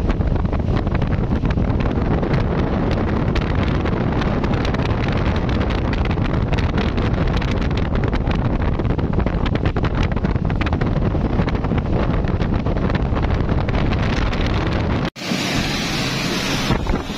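Wind buffeting the microphone over the steady rumble of a speedboat's engines and the rush of water as the boat runs at speed. About 15 seconds in, the sound drops out abruptly and comes back as a brighter, hissier rush of wind and spray with less low rumble.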